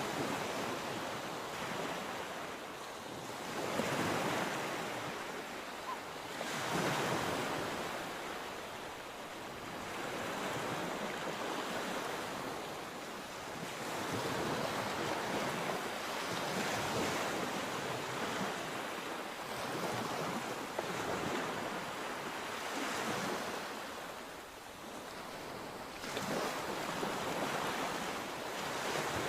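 Sea waves breaking and washing on the shore in repeated swells a few seconds apart, with wind noise on the microphone.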